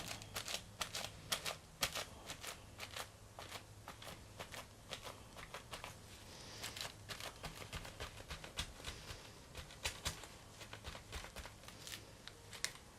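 Faint, irregular quick dabbing and scratching against a paper art-journal page as wet black paint is lifted off it, a run of small ticks that is busiest in the first few seconds.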